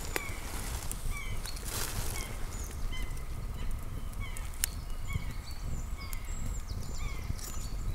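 Campfire with a few sharp crackles over a low rumble, under many short, high, falling chirps that keep repeating.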